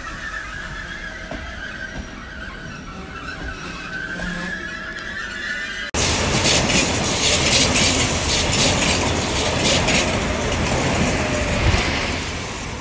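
A Trenord regional train rolling past with a thin, steady wheel squeal. About six seconds in, a sudden cut to a much louder rush and rapid clatter of wheels over the rails as a fast Trenitalia passenger train passes close by, easing off near the end.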